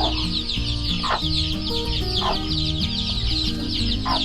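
A brood of young chicks peeping without pause, many rapid high falling chirps overlapping, with a few lower clucks about once a second. Background music with slow, stepped low notes underneath.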